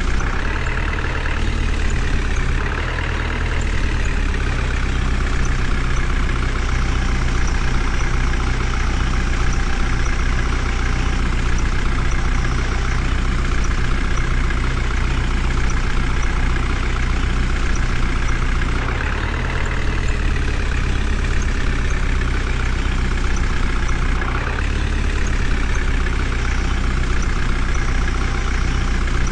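Heavy diesel engine of working machinery running steadily, rising briefly in pitch a few times as it takes load.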